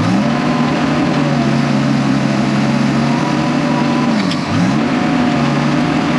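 Diesel engine of heavy earthmoving equipment running hard, its revs dipping sharply and recovering near the start and again about four and a half seconds in.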